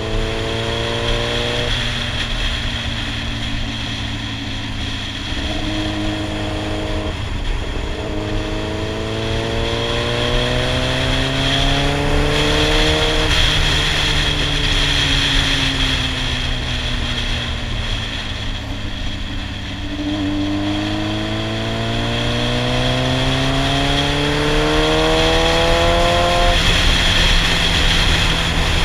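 Yamaha R6 sportbike's inline-four engine pulling up through the revs and then easing off, with pitch drops at gear changes. It climbs from the start, eases down through the middle, and pulls hard again before a sharp drop near the end, with a steady rush of wind.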